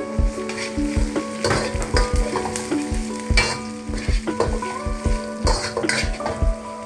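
Minced garlic sizzling in hot oil in a wok, with a metal spatula scraping and stirring it now and then. Background music with a steady beat plays over it.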